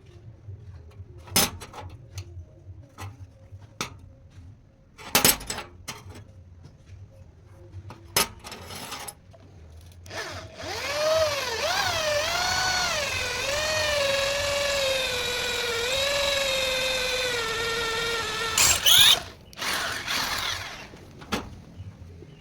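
Scattered workshop knocks and clicks. Then an electric power tool, likely a drill, runs for about eight seconds with a whine that wavers up and down as it is loaded and then settles, slowly dropping in pitch. A sharp loud clatter follows as it stops.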